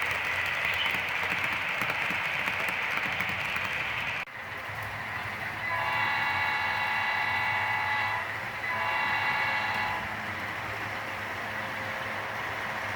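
Model diesel locomotive running with a steady noise that cuts off abruptly about four seconds in. Then its horn sounds two long blasts with a short gap between them, over the quieter running of the train.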